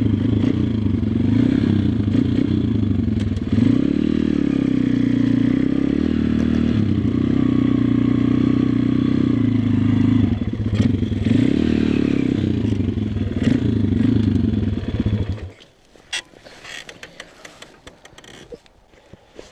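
Single-cylinder four-stroke engine of a WPB 140 Race pit bike running, its revs rising and falling again and again. The engine sound cuts off suddenly about four seconds before the end, leaving a few faint clicks and knocks.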